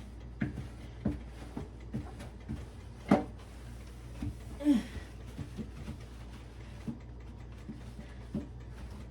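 Light, irregular knocks and bumps from handling things during kitchen cleaning, with one louder knock about three seconds in, over a steady low hum.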